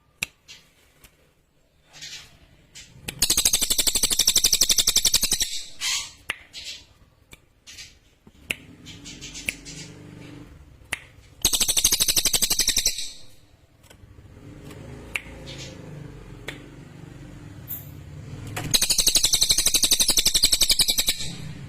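Cililin songbird singing three bursts of very rapid, high, sharp repeated notes, each lasting about one and a half to three seconds, with pauses between them.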